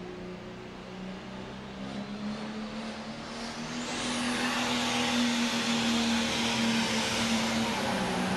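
International 1466 pro stock pulling tractor's turbocharged diesel engine running hard under load during a pull. A high turbo whine rises in pitch over the first few seconds, and the sound grows louder about four seconds in.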